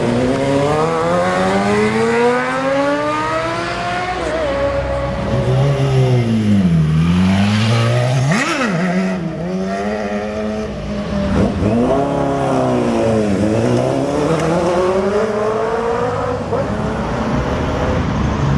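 Sport motorcycle engines revving and accelerating hard. The pitch climbs over the first few seconds, drops sharply twice around the middle, then climbs and drops again.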